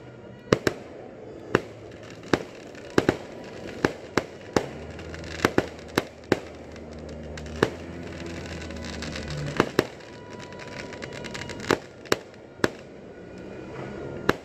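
Aerial fireworks bursting: about twenty sharp bangs at irregular intervals, some coming in quick pairs.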